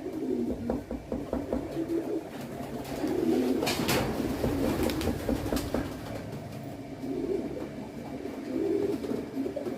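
Domestic pigeons cooing, repeated low warbling coos overlapping throughout, with a brief rustle a little under halfway through.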